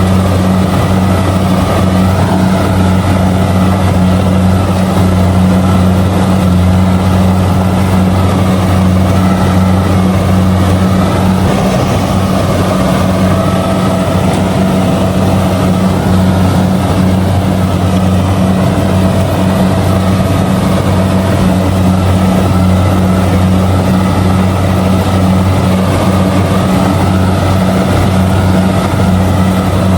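Kubota DC-70G combine harvester's diesel engine running steadily at constant speed while harvesting rice, a loud even drone with no change in pitch.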